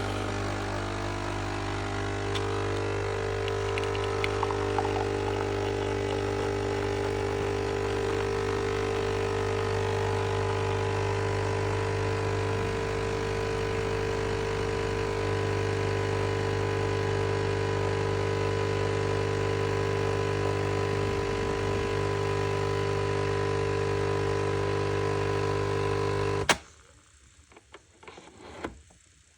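Nescafé Dolce Gusto Mini Me capsule coffee machine's pump running with a steady hum as it forces hot water through a capsule, then cutting off suddenly near the end, followed by a few light knocks.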